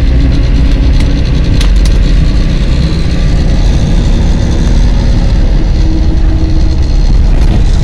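Steady, loud, low rumble of a moving road vehicle's engine and tyres, heard from inside the vehicle, with a few brief clicks between one and two seconds in.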